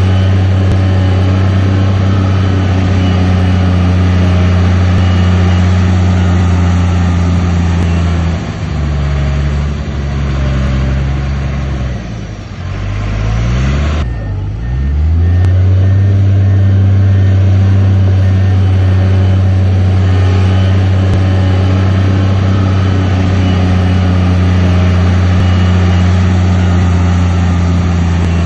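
Heavy diesel engine of earthmoving machinery (bulldozer or dump truck) running hard under steady load. Partway through, the revs dip, fall away and climb back up before holding steady again.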